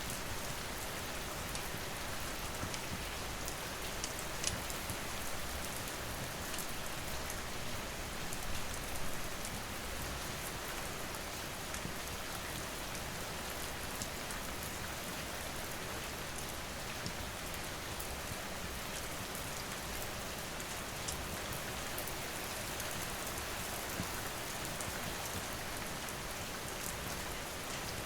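Steady rain falling on surfaces, an even dense hiss, with scattered sharp ticks and a few louder ones.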